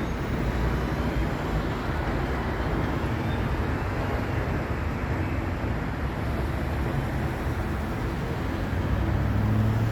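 Steady traffic rumble from vehicles on the road, with one engine's low hum swelling louder near the end.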